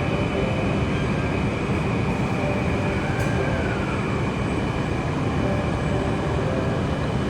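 Commuter train running on the rails: a steady, even noise of wheels and running gear with faint high tones. A fainter tone falls in pitch about three seconds in.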